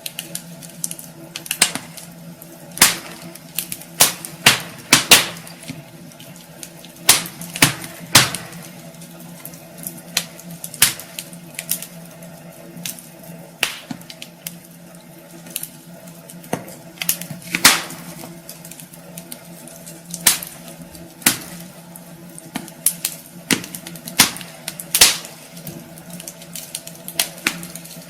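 Wood fire burning in a fireplace, crackling with irregular sharp pops over a faint steady hum.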